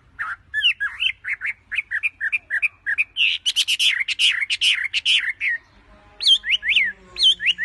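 Small birds chirping in a rapid run of short notes, thickest about halfway through, then after a brief pause a few calls that sweep up and back down in pitch.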